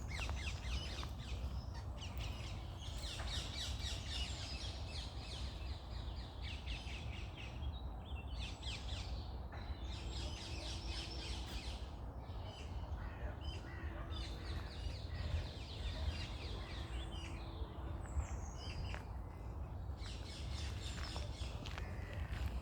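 Morning chorus of songbirds: many quick, overlapping chirps and trills in bouts separated by short pauses, over a steady low rumble of background noise.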